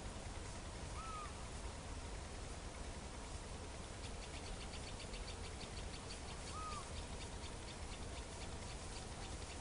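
Two short, arched bird calls several seconds apart, with a rapid series of high ticks, about ten a second, starting about four seconds in, over a steady low rumble.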